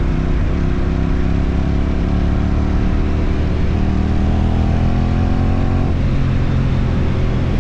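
Motorcycle engine running while riding. The engine note drops suddenly about half a second in, climbs steadily for a couple of seconds from about three and a half seconds, then drops again just before six seconds, as it would at gear changes.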